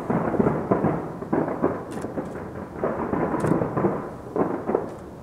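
Taipei 101 New Year's Eve fireworks heard from afar, so the bursts run together into a continuous rolling rumble of booms, like thunder. It eases off a little near the end.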